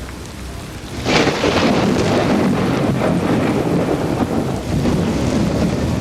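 A thunderclap about a second in, cracking sharply and then rolling on as a long, loud rumble, over steady rainfall.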